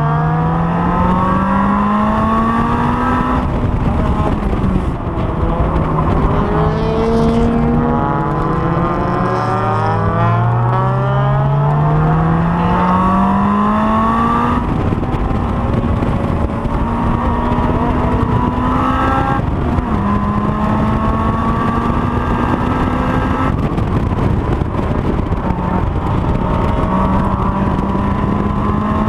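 Honda S2000's four-cylinder engine at racing speed: revs climb steeply, fall away and build up again several times, with a longer stretch of nearly steady high revs in the middle.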